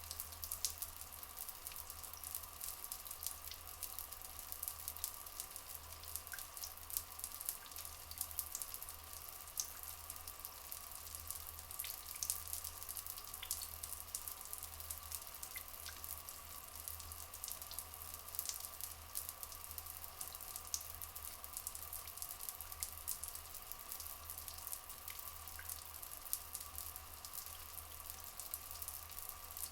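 Flowing water trickling and splashing steadily, with many small drips and splashes.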